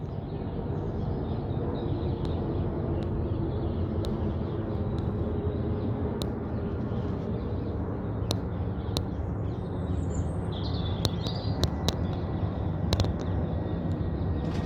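Jet engines of a Boeing 767-300ER on approach, a steady low roar overhead, with scattered clicks and a few short bird chirps about two-thirds of the way through.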